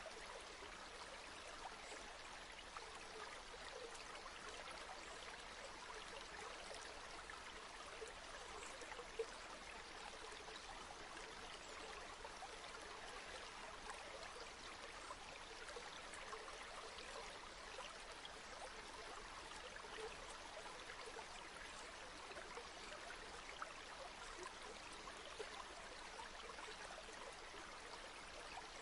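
A river flowing: a steady, faint rush of running water with a fine, constant babble.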